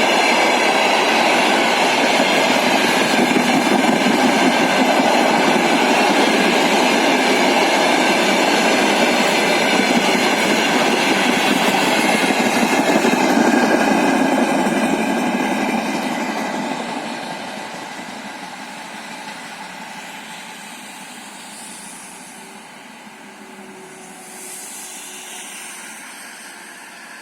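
Freight train wagons rolling past, a steady loud rumble of wheels on rail. About sixteen seconds in it begins to fade away as the train recedes.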